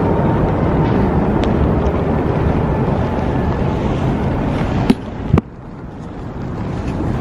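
Wind rumbling on the phone's microphone, with two sharp knocks of handling about five seconds in, after which the rumble is quieter.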